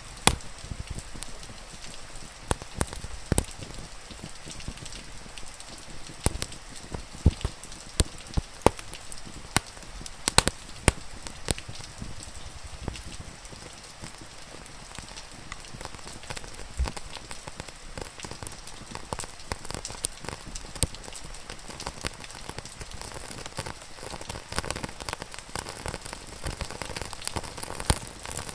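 Steady rain hissing, with scattered sharp crackles and pops from a wood fire at irregular moments.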